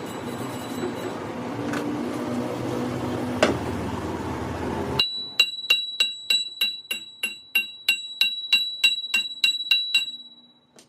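Steady workshop machinery noise with one sharp click, then a hammer tapping on steel about four times a second, each strike ringing with a high metallic tone, stopping shortly before the end.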